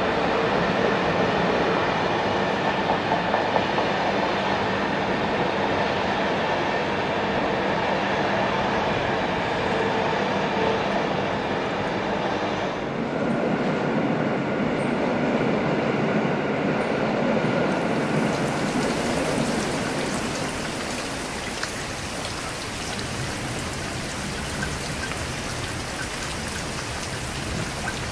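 An electric passenger train hauled by a Siemens EuroSprinter (EU44 Husarz) locomotive running through the station: the steady rumble of wheels on rails with a level hum. About 13 seconds in it gives way to quieter station background, and from about 18 seconds steady heavy rain hisses on the platform.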